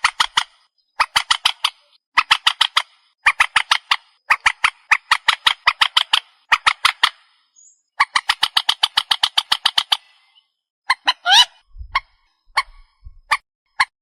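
Recorded call of the trích ré waterbird, played as a lure: rapid trains of short, harsh notes, about eight to ten a second, in bursts of one to two seconds. About eleven seconds in comes a rising squeal, then a few scattered single notes.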